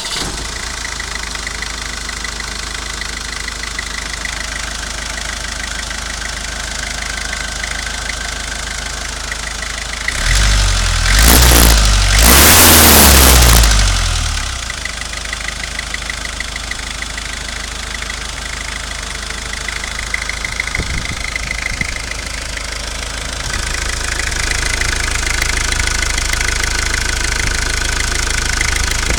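Ford Sierra 2.3-litre diesel engine idling, revved up once about ten seconds in for roughly four seconds, then dropping back to idle. It runs a little louder again near the end.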